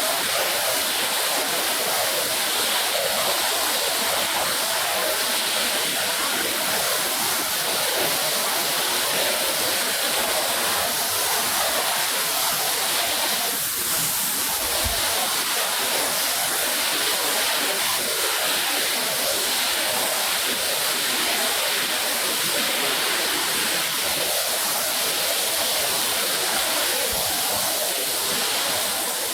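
Steady rush of water from a hose or spray rinsing a wet rug.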